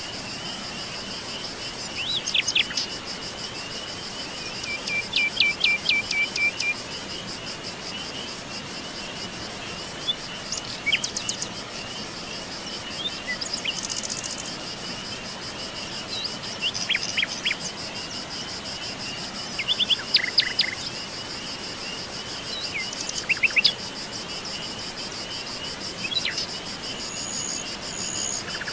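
Wild birds chirping in short scattered phrases every few seconds over a steady, rapidly pulsing insect trill.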